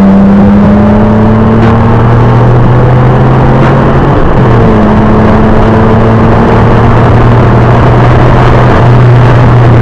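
2002 Nissan Maxima SE's VQ35DE V6 running at steady revs, loud, over tyre and road noise, heard inside the car's cabin through a dashcam microphone. Its pitch dips briefly a few times.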